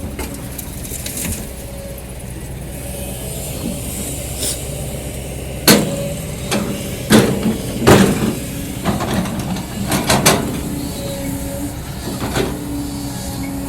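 Kobelco SK200 excavator's diesel engine running under load while its bucket digs into hard ground, with a run of sharp clanks and knocks as the bucket teeth strike and pry against the hard layer, starting about halfway through.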